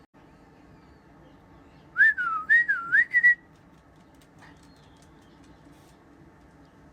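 A person whistling a short birdlike phrase, a clear tone sliding up and down in a few quick swoops for about a second and a half, partway in.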